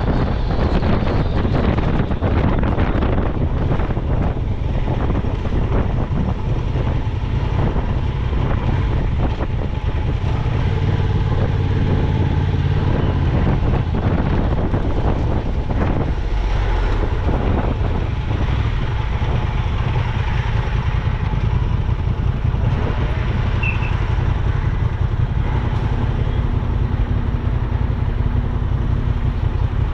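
Honda Transalp 750's parallel-twin engine and exhaust running steadily at highway speed, with wind rushing over the microphone.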